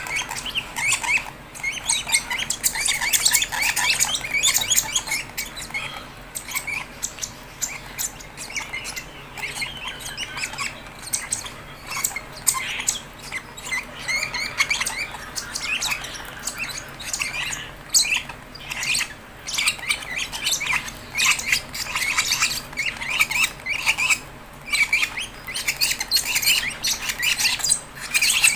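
Fischer's lovebirds squawking and chirping in a rapid, continuous stream of short harsh calls, typical of chicks begging at hand-feeding.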